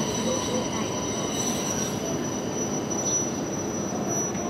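JR Hokkaido Rapid Airport electric commuter train rolling slowly into a station platform, giving a steady high-pitched squeal over the rumble of its running gear.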